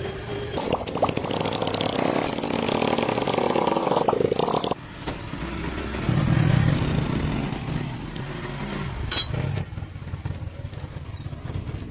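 An engine running, with a dense, busy sound that cuts off sharply about five seconds in, followed by a deeper, low-pitched running sound and a few sharp clicks.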